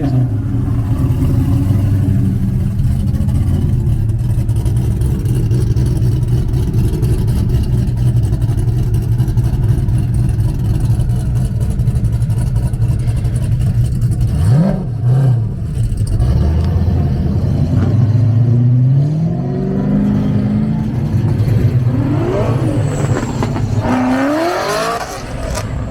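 Loud car engines running at idle, then revved: a quick rising sweep about halfway through, a slower climb a few seconds later, and several climbing revs near the end.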